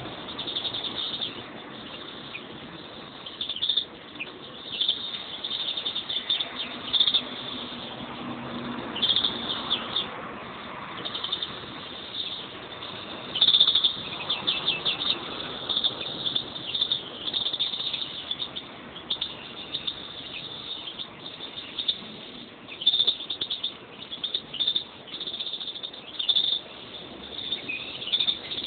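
Pet European greenfinches chirping and trilling in short bursts again and again, high-pitched and twittery.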